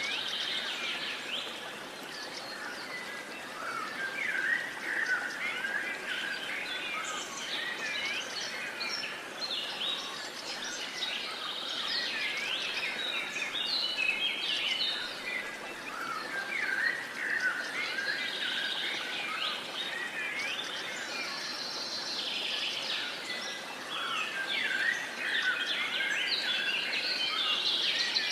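Several birds singing and calling at once, a dense chorus of short chirps and quick trills that overlap throughout, over a faint steady background hiss.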